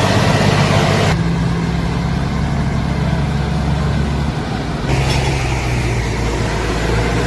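Tractor diesel engine running steadily, a low even hum, with the sound changing abruptly about a second in and again near five seconds.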